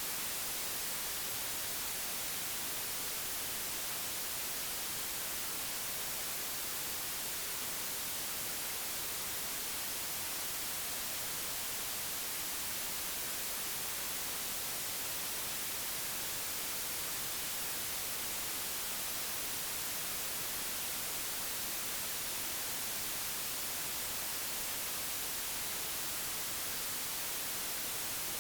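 Steady, unchanging white noise generated by software, an even hiss with most of its energy in the high frequencies.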